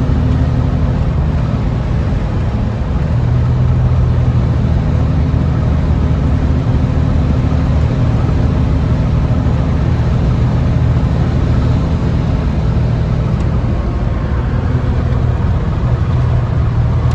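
A 4.3-litre V6 pickup truck engine running under way. Its note steps up in pitch about three seconds in and dips briefly later on.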